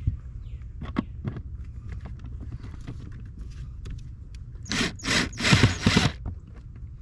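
A few light clicks, then a cordless drill/driver set to reverse running in four short bursts about five seconds in, backing out the screw that holds a car's lower kick panel.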